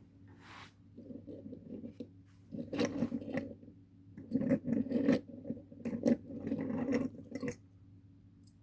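A small die-cast toy tractor being handled: a series of scratchy scraping and rubbing bursts with light clicks, over a steady low hum.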